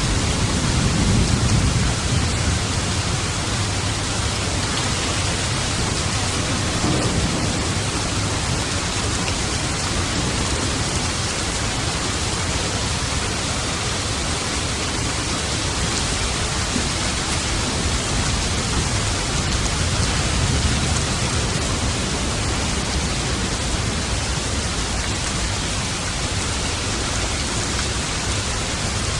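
Steady, heavy rain falling, with low thunder rumbling softly at the start and again about two-thirds of the way through.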